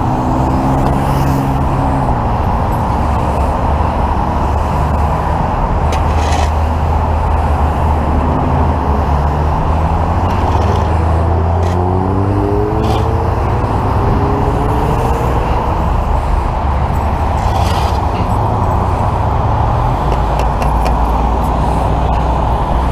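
Steady freeway traffic noise over a running engine's low hum, with a vehicle accelerating past about halfway through and a few short sharp scrapes or knocks.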